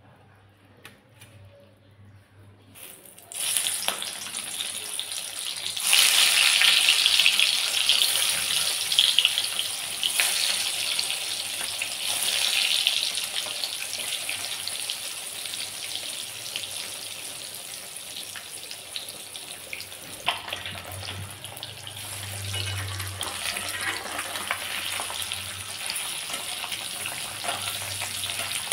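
Boiled eggs frying in hot oil in a kadai, sizzling with a steady hiss that starts suddenly a few seconds in and is loudest soon after. Near the end, a few clicks as a metal spatula turns the eggs against the pan.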